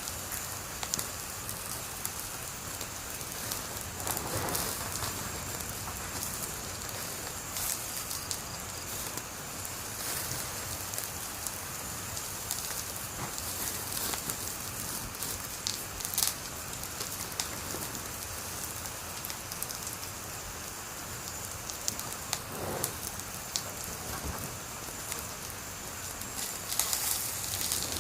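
Wood fire burning: a steady hiss with scattered sharp crackles and a few louder pops.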